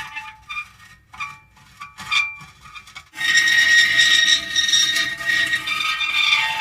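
Metal creaking. Several short, quieter squeaks come over the first three seconds, then a loud, drawn-out, high-pitched creak starts about three seconds in and holds.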